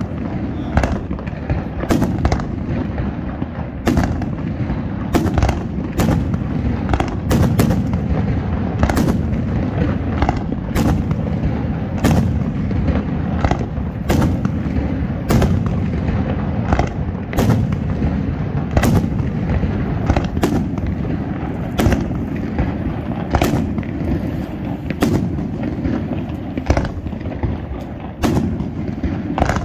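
Aerial fireworks display: shells bursting in quick succession, sharp bangs about one to two a second over a continuous low rumble of overlapping explosions.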